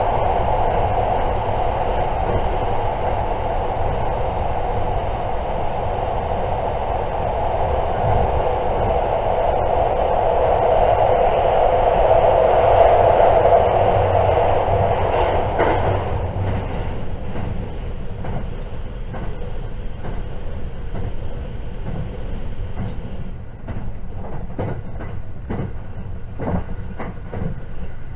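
JR 681 series electric limited express heard from inside a passenger car while running at speed: a loud, steady rumble and roar. About halfway through the roar drops, and a run of wheel clicks over the rail joints stands out.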